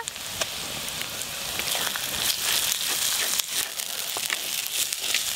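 Ginger-garlic paste sizzling in hot oil among fried onions in a clay pot, with the sizzle growing louder about two seconds in. A wooden spatula scrapes and taps against the pot as the paste is stirred in.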